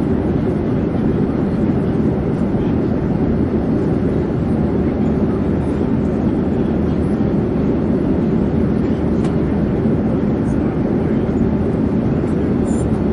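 Steady, unchanging drone of an airplane in flight, heavy and low with a hiss above it.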